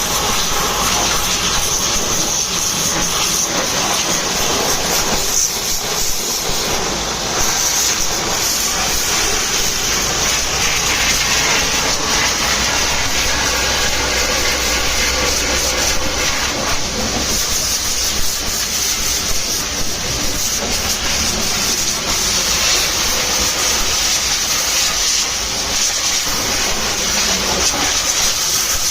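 Jet of water spraying onto a truck during washing: a steady rushing spray noise, strongest in the high range, with no break.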